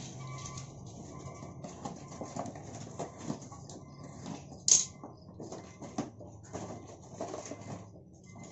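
Small wild-caught songbirds moving about in their box, making irregular taps and scratches, with one sharp high squeak near the middle.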